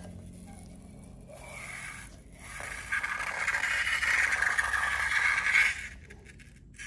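Scraping and rustling as slime-play materials are handled. It starts about three seconds in and stops abruptly about three seconds later.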